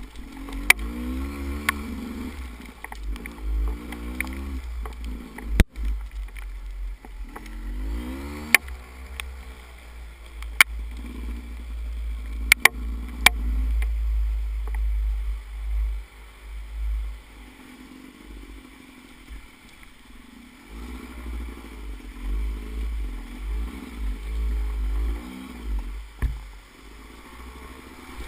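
Motorcycle engine running at low speed, its revs rising and falling over and over as it picks its way along a rough trail, under heavy low buffeting on the microphone. Sharp clicks and knocks from the ride come now and then.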